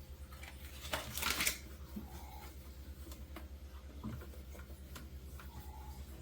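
Dry towel wiping a refrigerator's surfaces: a louder rustling swipe about a second in, with small knocks and rustles around it, over a low steady hum.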